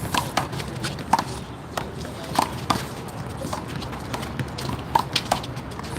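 A rally of one-wall handball: the rubber big blue ball smacked by open hands, striking the wall and bouncing on the court, a quick irregular string of sharp smacks.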